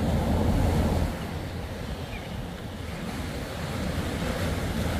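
Surf breaking with wind buffeting the microphone: a steady low rumble and hiss, a little louder in the first second.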